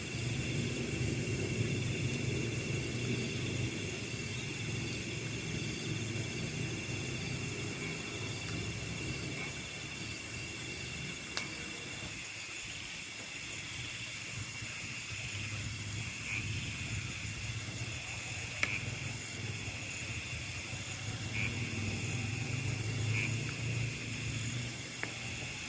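Chorus of night insects in a rice field: steady high trilling, with short high chirps about once a second from about halfway through, over a low steady rumble.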